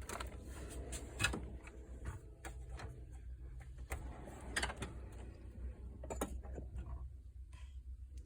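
Tools and metal toolbox drawers being handled: scattered clicks and knocks, with a short scrape about halfway through, over a steady low hum.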